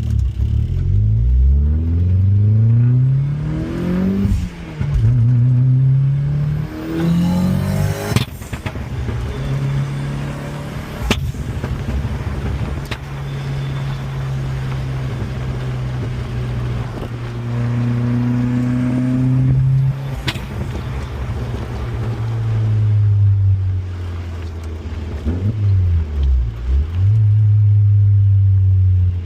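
Audi car engine accelerating through the gears, its pitch climbing and dropping at each shift about three times in the first eight seconds, then cruising at a steady note, with a further rise and dip in the last third.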